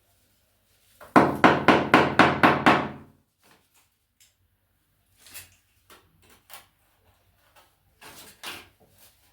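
A rapid run of about eight knocks in two seconds, a mallet tapping a wall tile to bed it into the tile adhesive, followed by a few faint clicks and taps.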